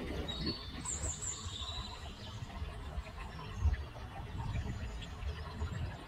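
Small birds chirping, with a few high, thin calls in the first second and a half and fainter ones later, over a steady low rumble.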